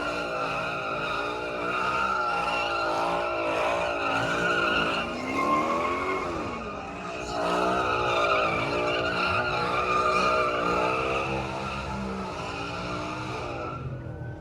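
A car spinning its tires: a steady high tire squeal over an engine held at high revs, its pitch wavering up and down rapidly. It stops near the end.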